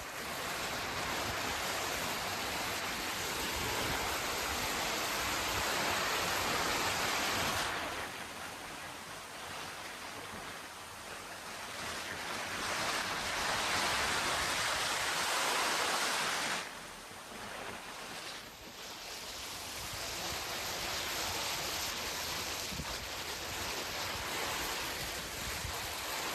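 Heavy rain falling, a steady hiss that swells and eases, dropping off sharply twice, about 8 and 17 seconds in.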